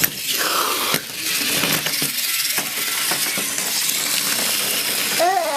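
Battery-powered toy train running, a steady mechanical whir and clatter of its small gearbox with light clicking and rattling.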